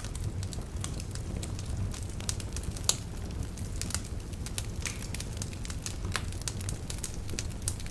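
Wood fire burning in a fireplace: a steady low rumble of flames with frequent irregular sharp crackles and pops from the burning logs, one louder pop a little under three seconds in.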